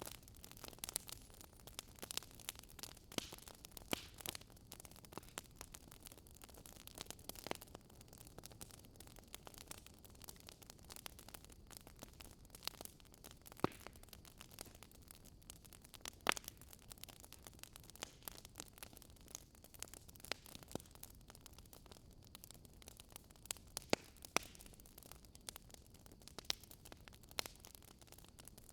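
Wood fire burning, crackling with irregular sharp pops over a faint steady hiss.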